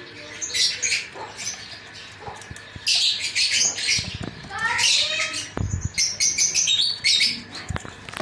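Caged aviary birds chirping in quick, repeated high calls, with a few wing flaps and thumps against the cage.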